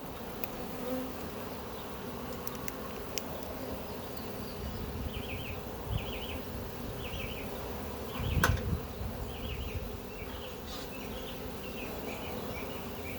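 Honeybee swarm buzzing steadily around the capture box, with a single low thump about eight seconds in.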